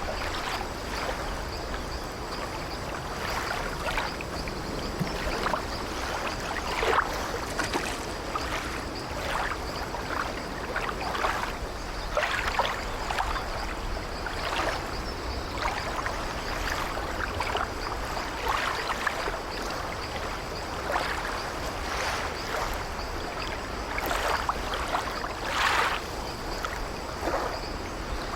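Sea water washing and lapping against an old wooden ship, with frequent short irregular splashes and creaks of the timbers over a steady wash.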